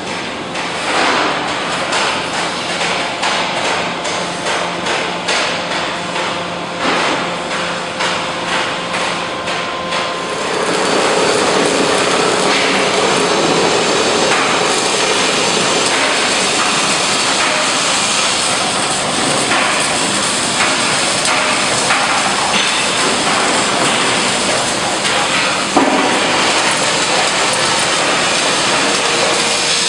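Metalworking shop noise: rapid hammer-like knocks for about ten seconds, then a dense, steady clattering noise.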